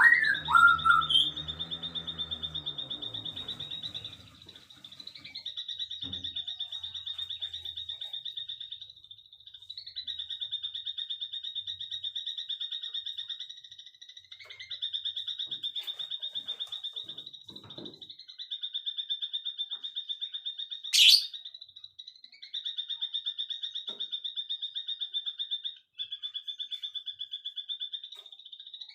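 A rapid, high-pitched pulsed trill that runs in phrases of about four seconds with short breaks, from a trilling animal. Short whistled bird notes sound at the start, and a single sharp rising call cuts in about two-thirds of the way through.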